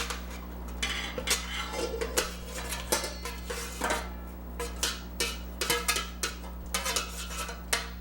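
A utensil clinking, knocking and scraping against a pot and mixing bowl as cooked tortellini is moved into the bowl. It is an irregular run of sharp clatters, several a second, under a steady low hum.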